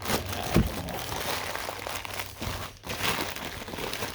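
Packaging crinkling and rustling as a parcel holding a brake part is unwrapped by hand, with a single thump about half a second in.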